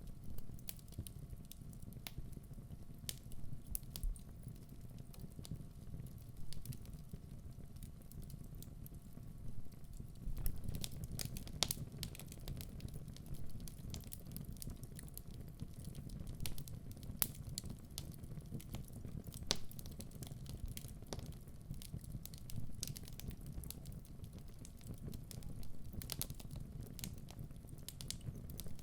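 Wood fire burning in a fireplace: a steady low rumble of the flames with frequent sharp crackles and pops from the burning logs, which come thicker after about ten seconds.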